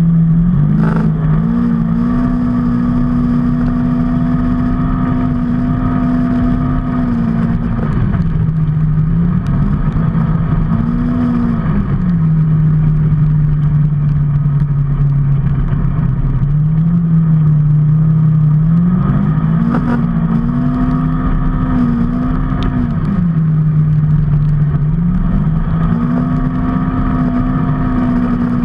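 A motor vehicle's engine running continuously while under way, over a steady low rumble. Its note climbs and drops several times as speed changes: up about a second in, down around eight seconds, low through the middle, then up and down again in the last third.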